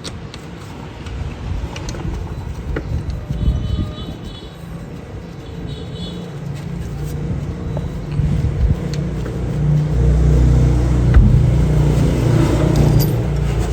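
A car engine running with a low rumble that grows louder about eight seconds in, with occasional sharp clicks.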